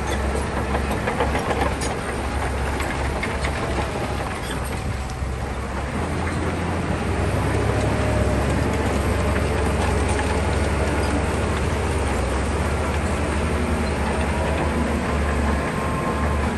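Shantui crawler bulldozer running: a steady diesel engine note with the steel tracks clanking and rattling. The engine sound grows louder about seven seconds in.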